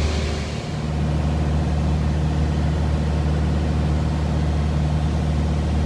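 Light aircraft's engine and propeller running steadily in the cockpit, a constant low drone, with a brief dip in level about half a second in.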